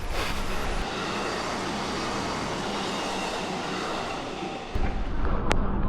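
A train passing, with a steady rushing noise and a faint steady whine. About three-quarters of the way through it cuts abruptly to a louder low rumble.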